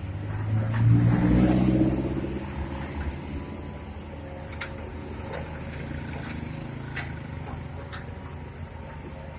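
Diesel engine of a soil-loading excavator or dump truck revving up about a second in, with a short hiss, then settling to a steady run. A few sharp clacks are heard over it.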